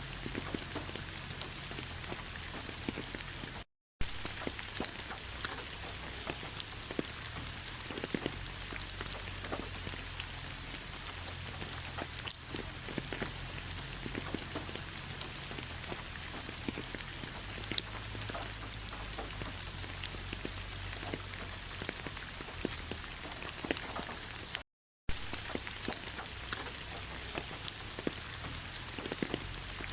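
Autumn rain falling on fallen leaves: a steady patter with many separate sharp drop taps. The sound cuts out completely for a split second twice, about four seconds in and again near twenty-five seconds.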